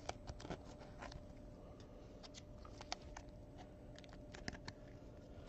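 Faint, irregular light clicks and small rustles of cards and supplies being handled on a tabletop.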